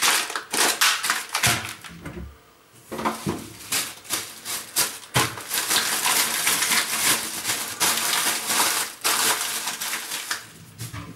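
Close handling noise: a few sharp knocks and clicks, then several seconds of dense crackling and rustling that dies away near the end.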